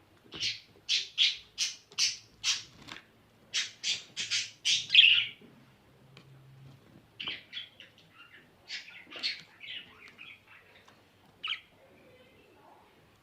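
Budgerigar squawking: a run of about a dozen harsh, rapid calls in the first five seconds, then softer, scattered chirps and chatter.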